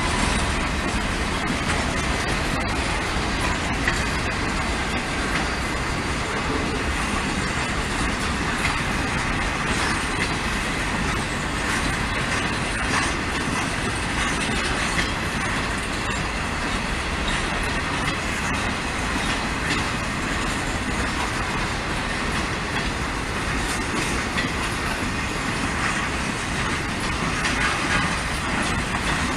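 Norfolk Southern freight train rolling past, its cars making a steady noise of steel wheels running on the rails.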